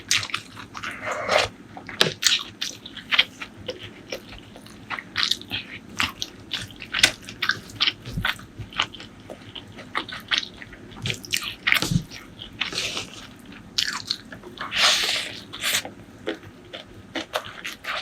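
Close-miked eating sounds: chewing with many short, sharp wet mouth clicks and smacks, plus a longer noisy mouth sound about a second in and again near fifteen seconds.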